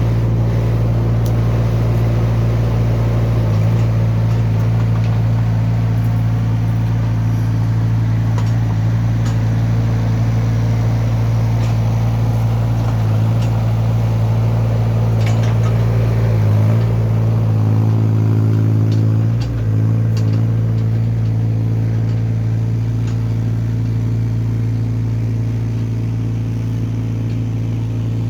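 A Hyundai mini excavator's diesel engine running steadily, its note shifting briefly around the middle, with a few faint clicks.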